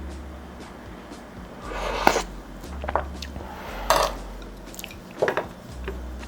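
Ramen-eating sounds: four short clinks and scrapes of utensils against the dish, about a second apart, over a low steady room hum.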